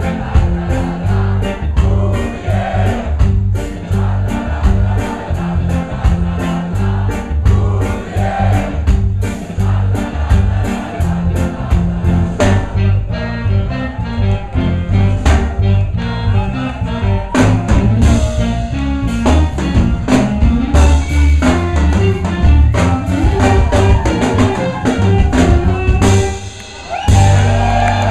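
Live band playing a rocksteady song, with sung vocals over drum kit, bass and other instruments. About a second before the end the music drops out for a moment, then comes back on a held chord.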